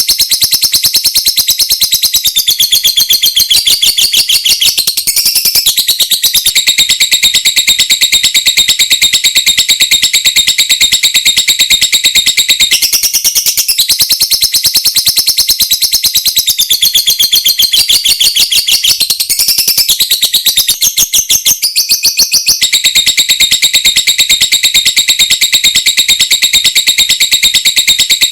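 Lovebird singing its long 'ngekek' chatter: very rapid, high-pitched clicking notes run together in a long trill, breaking off briefly a few times before starting again.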